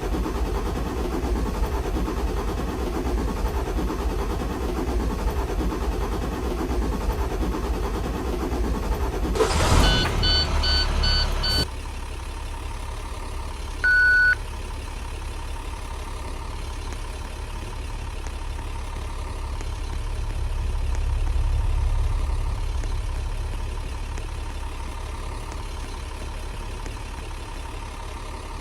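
IC Bus CE school bus's MaxxForce diesel engine idling just after startup. About ten seconds in, a louder rush comes with a run of short electronic beeps, then stops suddenly. A single beep follows a couple of seconds later, and the engine settles into a steadier, quieter idle that swells briefly about two-thirds of the way through.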